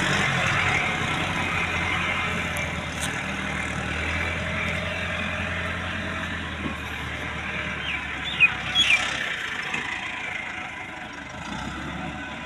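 Tractor engine running steadily under load, slowly growing quieter, with a few short high chirps about two-thirds of the way in.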